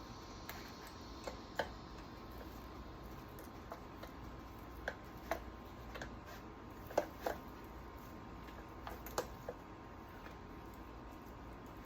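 Irregular light clicks and taps of small chainsaw parts being handled and set down, a dozen or so, the loudest pair about seven seconds in, over a faint steady hum.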